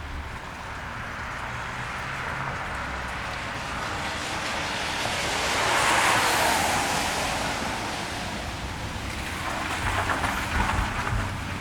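A car passing on a rain-soaked street, its tyres hissing through the water: the hiss swells to a peak about halfway through and fades, and a second vehicle rumbles closer near the end, over steady rain.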